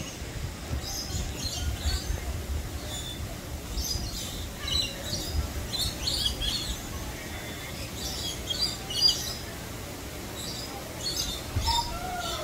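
Small songbirds chirping in quick clusters of short, high notes, repeated every second or so, over a low steady rumble.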